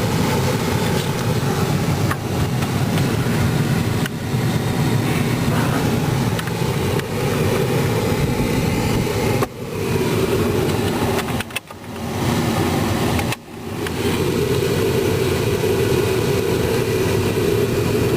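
Inside a pickup cab: the engine idling under the steady rush of the heater/air-conditioning blower fan running. The blower sound drops out sharply and briefly three times, a little past the middle, then comes back.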